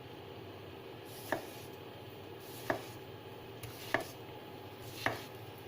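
A freshly sharpened stainless-steel kitchen knife cutting something and knocking down on a board in a cutting test, four strokes about a second and a quarter apart.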